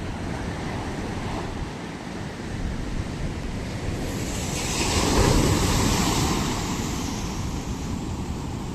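Sea waves breaking on the shore. One wave builds and crashes about halfway through, then washes back out.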